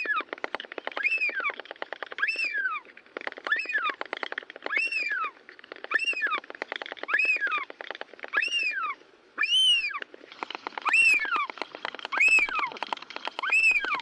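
Bird calls: a rising-then-falling call repeated about every second and a quarter, roughly a dozen times, over a fast low pulsing rattle that pauses briefly about two-thirds of the way through.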